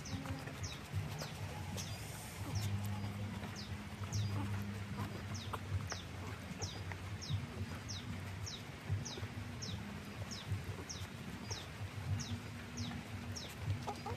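A bird repeating a short, high chirp that falls in pitch, about twice a second and very evenly, over a low hum.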